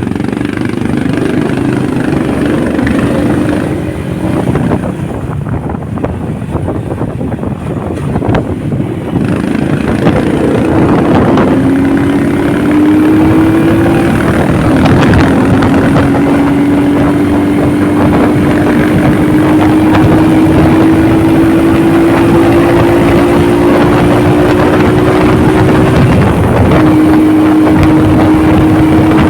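Motorcycle engine running while riding, over a rush of wind noise. The engine note climbs about a third of the way in, then holds and rises slowly, with a short dip in pitch near the end.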